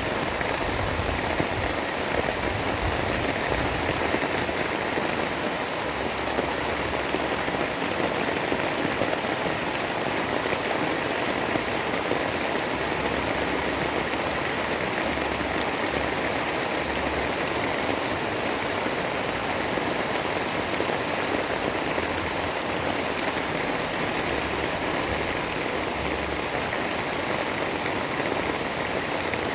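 Steady rain, an even hiss of drops with a low rumble coming and going underneath.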